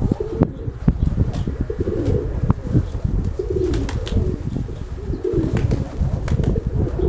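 Domestic Nikolaev pigeons cooing repeatedly, several phrases in a row, over a low rumble of gusty wind on the microphone.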